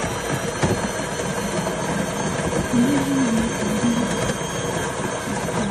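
Built-in burr grinder of a De'Longhi Eletta Explore bean-to-cup espresso machine grinding beans for an espresso shot: a loud, steady grinding whir that cuts off abruptly at the end.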